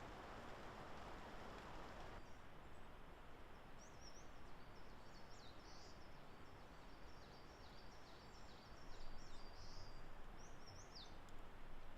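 A small songbird calling faintly over steady forest background hiss: a long string of quick, high, downward-slurred notes from about two seconds in until near the end.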